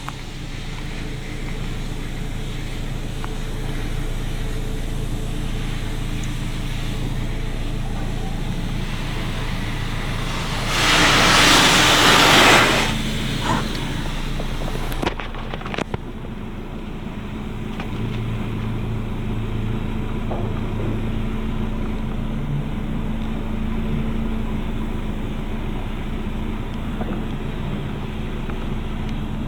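Washworld High Velocity automatic car wash running its pre-soak cycle, heard from inside the vehicle: a steady machine hum. A loud spray hiss washes over the vehicle for about two seconds near the middle, and a steadier high hiss stops shortly after.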